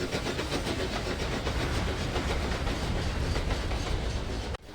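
Steam tank engine running along the track with a fast, even beat. It cuts off suddenly near the end.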